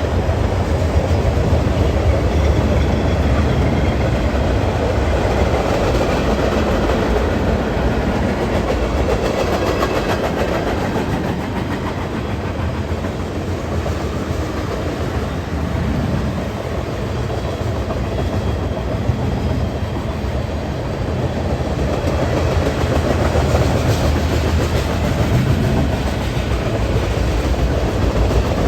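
A train's cars rolling past in a continuous rumble, with the clatter of wheels over the rail joints. The sound eases a little in the middle and builds again near the end.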